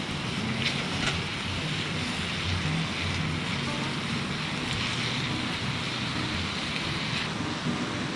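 Pork and sliced onion sizzling in a cast-iron skillet over a wood fire: a steady frying hiss, with a few brief sharp crackles or clicks in the first seconds.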